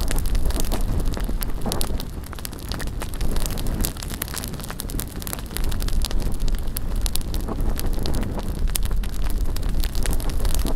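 Bonfire crackling and popping with many sharp snaps, over a low rumble of wind on the microphone that eases for a few seconds midway.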